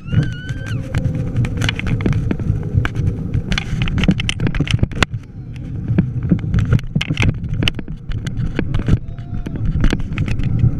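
Riding noise from a moving bike: a steady low rumble of wind and road, broken by frequent sharp rattles and knocks.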